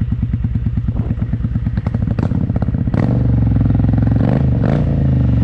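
Motorcycle engine running with an even pulsing beat, then picking up revs and holding higher about three seconds in, with several sharp clicks along the way.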